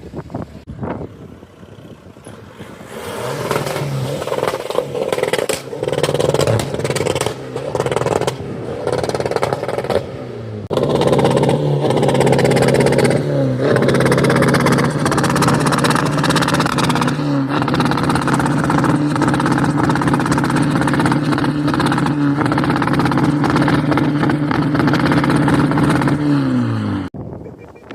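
Car engine revved hard, with several short revs, then held at steady high revs for about fifteen seconds with a couple of brief dips. The revs fall away sharply near the end.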